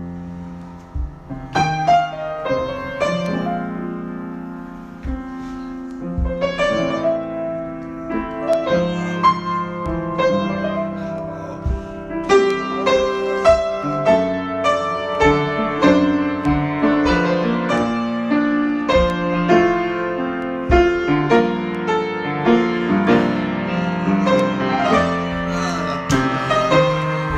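Piano or keyboard playing an improvised instrumental passage: many struck notes ringing over one another above held low notes, growing busier about halfway through.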